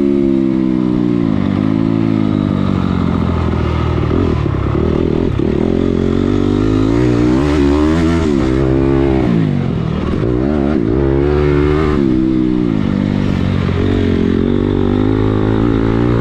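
Dirt bike engine revving hard on a motocross lap, its pitch climbing and dropping again and again as the throttle is opened and shut through corners and jumps.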